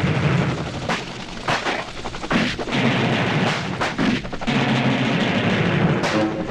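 Action-film soundtrack: background score under a string of sharp gunshots and booms coming at uneven intervals.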